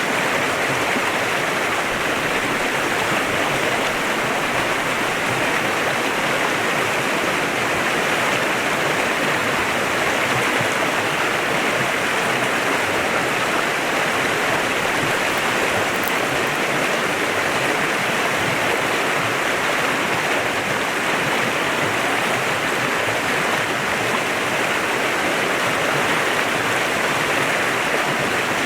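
A clear mountain stream running over rocks, a steady, unbroken rush of flowing water.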